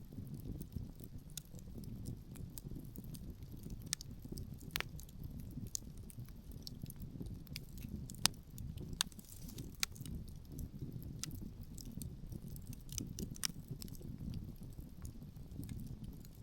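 Wood fire crackling, with scattered sharp pops, the loudest about eight seconds in, over a steady low rumble of wind.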